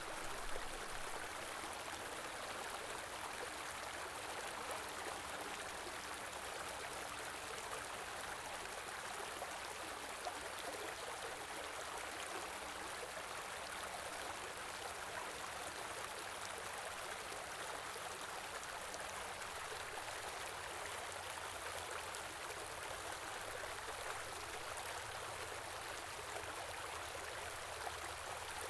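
Shallow stream flowing steadily over stones, an even rushing and babbling of water.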